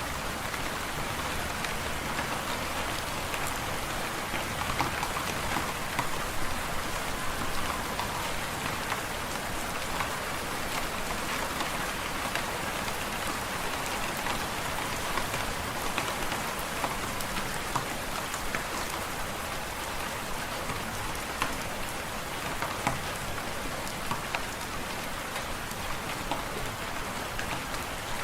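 Fireplace wood fire crackling: a steady hiss dotted with many small irregular pops and snaps.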